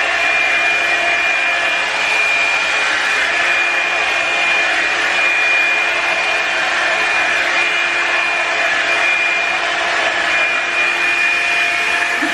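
Revlon electric blow dryer running steadily: a constant rush of air with a high motor whine, rising and falling slightly as it is worked through the hair.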